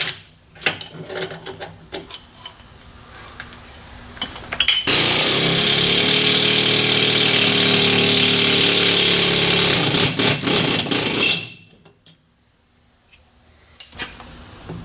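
A few scattered clicks and knocks of parts being handled. About five seconds in, a power tool starts, runs loud and steady for about six seconds, then stops suddenly.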